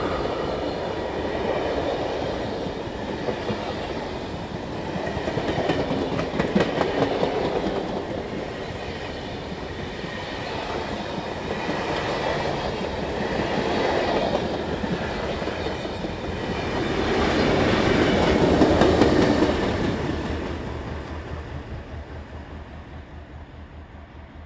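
Heritage diesel-hauled passenger train passing close by, its wheels clattering over the rail joints, the sound swelling and easing as the cars go by. It is loudest near the end, then fades away as the train moves off.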